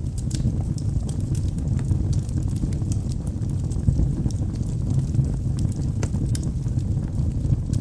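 Wood fire burning logs in a fireplace: a steady low roar of the flames with frequent sharp, irregular crackles and pops.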